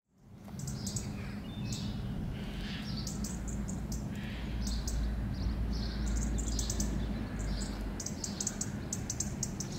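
Small birds chirping and singing in short, repeated high notes, over a steady low rumble; the sound fades in at the very start.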